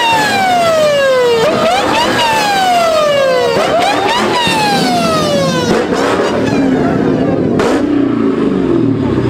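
Siren wailing, its pitch jumping up and then sliding slowly down about every two seconds, three times, before fading out, over the sound of car engines.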